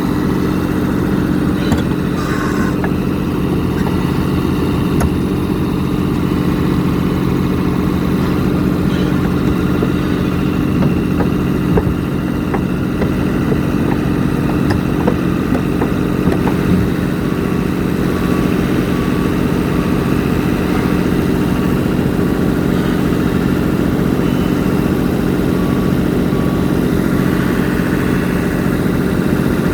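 Diesel engine of a pile-driving rig idling steadily, with a constant low hum.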